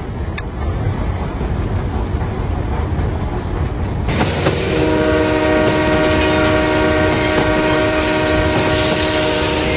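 Train rumbling along the track, then its horn sounds one long chord of several notes held from about halfway through.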